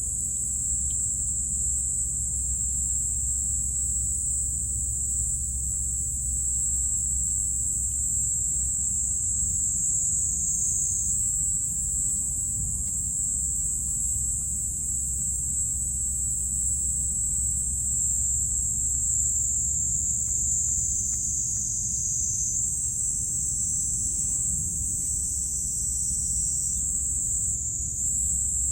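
Crickets trilling in a continuous high-pitched chorus, whose pitch shifts slightly now and then, over a steady low rumble.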